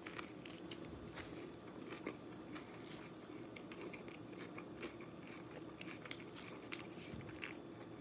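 A person biting into and chewing a mouthful of burrito: quiet wet mouth clicks and soft crunches, with a few sharper clicks about six to seven and a half seconds in.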